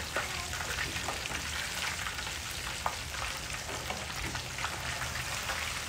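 A whole fish deep-frying in hot oil in a wok: a steady crackling sizzle with scattered pops. A wooden spatula and a slotted metal skimmer click and scrape against the fish and pan a few times.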